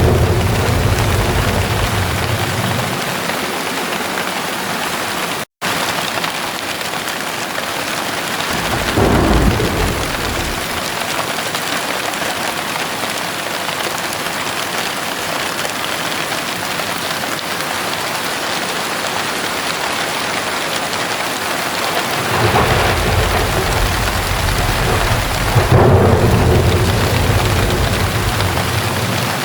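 Heavy rain falling steadily, with rolls of thunder rumbling low: one fading out at the start, a short one about nine seconds in, and a longer rumble through the last quarter. The sound cuts out completely for a split second about five seconds in.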